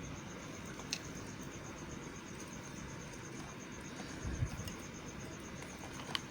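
Knife cutting into a bar of white soap: two sharp clicks and a low thump over a steady hiss.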